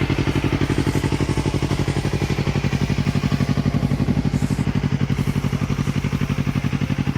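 Yamaha YZF-R3's 321 cc parallel-twin engine idling steadily at about 1500 rpm through an Akrapovic Racing GP full exhaust system, warmed up, with an even, rapid pulse and a deep throaty note.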